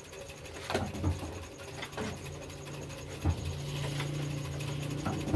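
Old diesel engine: a few separate metallic knocks, then about three and a half seconds in a steady low engine hum sets in and grows stronger.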